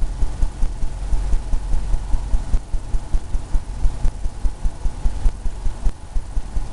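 Paintbrush dabbing and scrubbing on a canvas, a steady run of soft low thumps about three to four a second.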